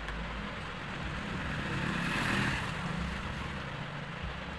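A vehicle passing in the background: a steady rumble and hiss that swells about halfway through, then fades.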